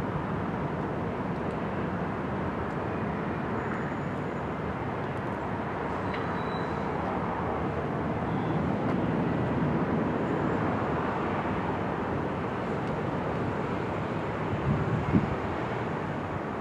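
Jet airliner engines running, a steady rumbling roar that swells a little midway through.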